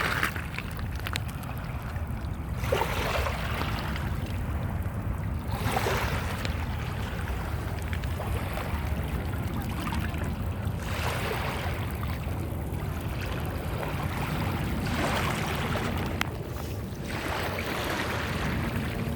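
Small waves breaking and washing up the beach, about five rushes of hiss that swell and fade, over a steady low rumble of wind on the microphone.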